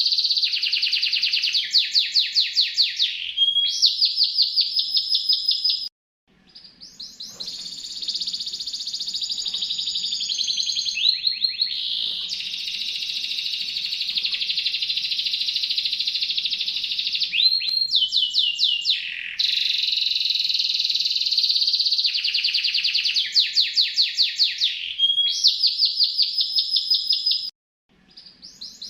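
A songbird singing continuously in fast, high trills and rapid repeated phrases, broken by brief silences about six seconds in and near the end.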